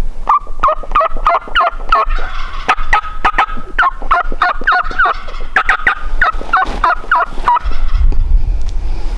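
Merriam's wild turkey gobbling loudly, a rapid rattling gobble repeated in three runs over about seven seconds.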